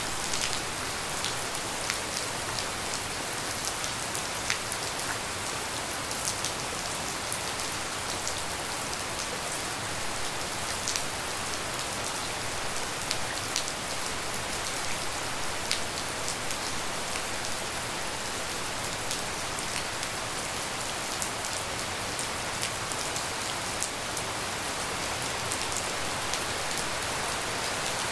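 Steady tropical rain falling, a constant hiss with scattered sharper drips and drop impacts.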